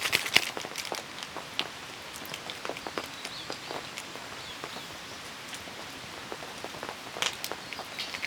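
Steady rain, with many individual raindrops striking a surface as separate sharp ticks over a soft hiss; heavier clusters of drops come right at the start and again about seven seconds in.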